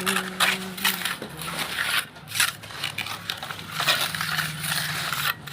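Repeated gritty scraping and crunching strokes, irregular, about two or three a second, over a faint low hum.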